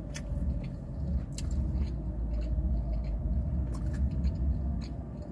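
Chewing on a crispy fried chicken sandwich: small scattered crunching clicks over a steady low rumble.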